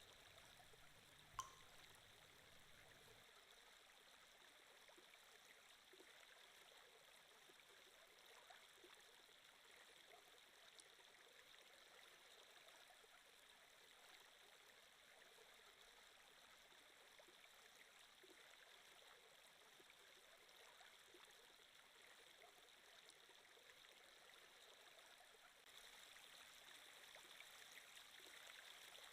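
Faint, steady sound of a flowing stream trickling, a water-flow ambience track, growing a little louder near the end. A single short click about a second and a half in.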